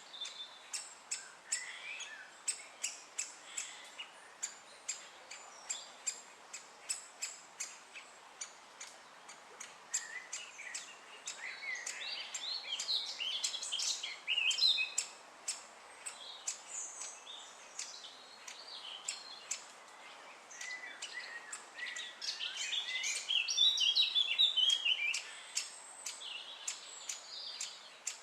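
Great spotted woodpeckers calling at the nest: sharp, short calls repeated about twice a second, then two spells of louder, busier chattering, about 12 and 23 seconds in, typical of the chick begging as food arrives.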